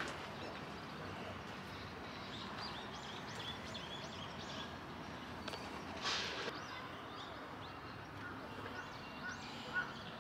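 Outdoor ambience: a steady background hum with birds chirping, a quick series of short chirps about two to four seconds in, and a brief louder noise about six seconds in.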